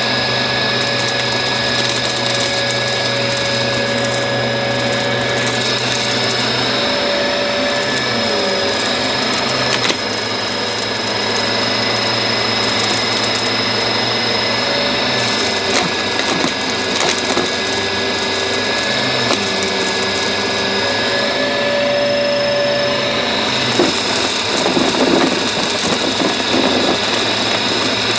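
Upright vacuum cleaner running, a steady motor whine over a low hum that changes pitch a few times as it is pushed and pulled, with scattered clicks and crackles of debris being picked up, most near the end.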